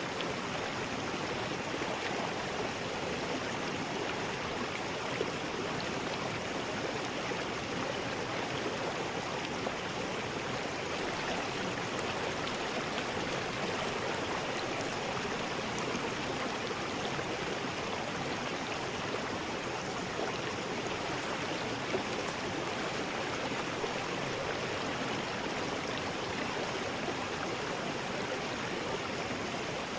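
River rapids: water rushing over rocks in a steady, unbroken roar.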